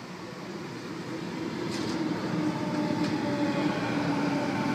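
Sydney Trains A-set (Waratah) electric train pulling into the platform, its sound growing steadily louder, with a steady motor whine that drifts slightly lower as it slows and a few faint clicks from the wheels on the rails.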